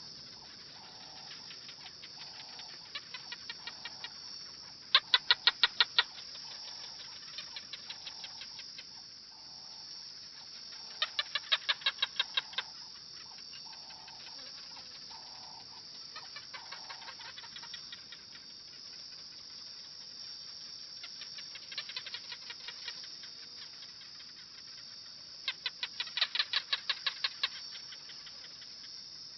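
A bird calling in rapid trains of sharp, clicking notes, five bursts of about a second each spaced several seconds apart, over a steady high buzz.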